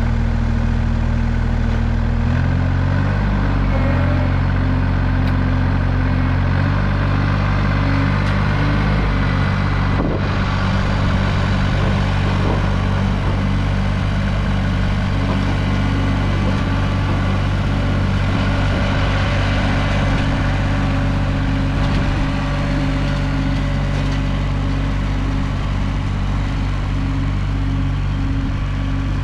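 A vehicle engine running steadily, its engine speed shifting a couple of times in the first seven seconds, with a single sharp knock about ten seconds in.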